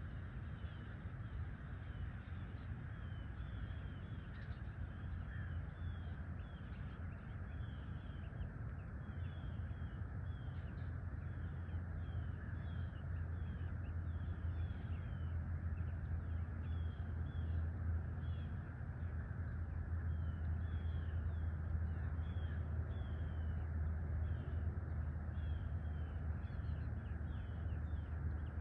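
Birds calling outdoors at dawn: many short, quick calls repeated throughout, over a steady low rumble.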